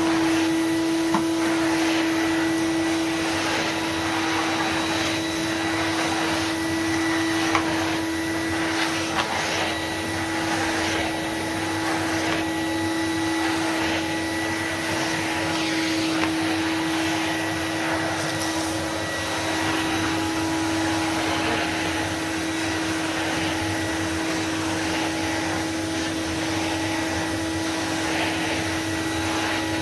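1993 Numatic NV250 cylinder vacuum cleaner running steadily, its motor giving a constant whine over a rush of air that swells and fades as it is worked, with a few light clicks.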